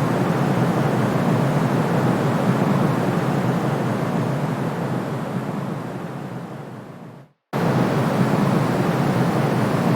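Steady, deep white-noise hiss for soothing a colicky baby. It fades away over about two seconds, cuts to silence for a moment about seven seconds in, then comes straight back at full level.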